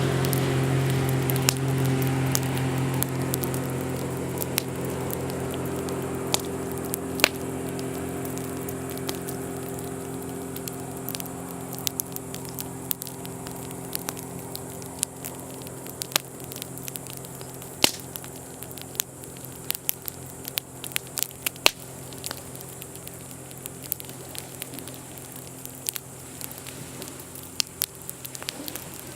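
Campfire crackling, with many sharp pops and snaps at irregular intervals. Under it an engine's steady low hum slowly fades away.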